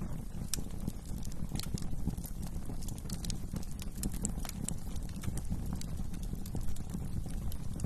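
Wood fire burning in a fireplace: a steady low rumble of flames with irregular sharp crackles and pops from the burning wood, several a second.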